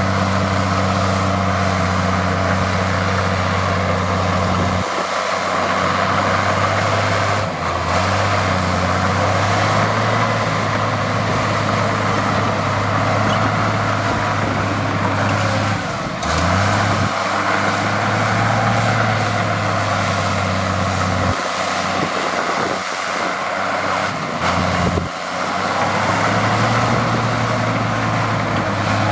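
Heavy diesel construction machine engine running under changing load. Its low note shifts pitch and drops out several times, with a brief rising rev about halfway through.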